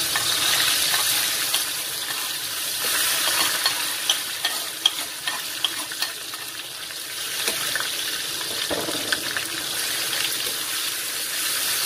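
Ground soto spice paste sizzling in hot oil in a stainless steel wok, stir-fried with a metal spatula. There is a steady sizzle with many small scrapes and clicks of metal against the pan.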